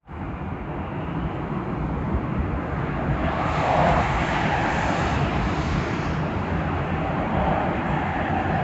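Boeing 737-800 jet passing on its landing approach, its CFM56-7B turbofans making a continuous rushing noise that swells loudest about four seconds in and then holds.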